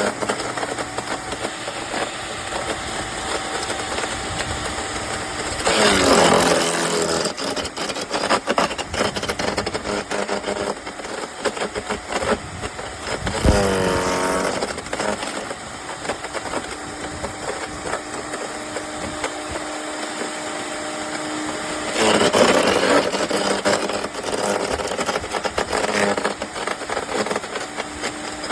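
Electric wood chipper shredder's motor running with crackling as material is chipped; three times the motor's pitch dips and recovers.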